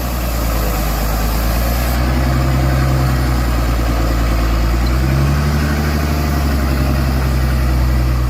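Heavy truck engine running steadily, its pitch rising a little about five seconds in.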